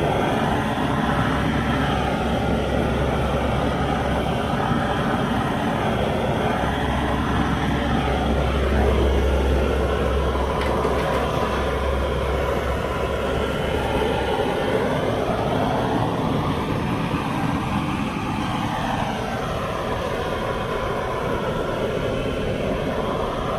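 Gas blowtorch running steadily, its flame played over the wood stove's glass door to warm it against soot, with slow rises and falls in pitch as it moves.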